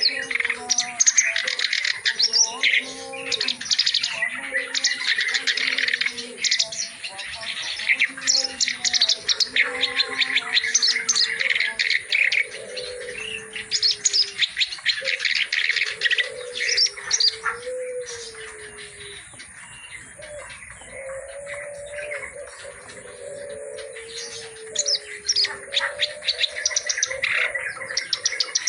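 Kerak basi (reed warbler) singing a fast, harsh, chattering song packed with mimicked phrases, thinning out briefly in the later part before resuming. Low, sliding cooing notes like a dove's run underneath.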